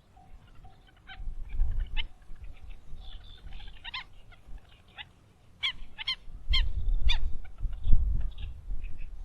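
Short, sharp honk-like calls of farm fowl, about eight in all, coming quickly one after another in the second half, over a low rumble.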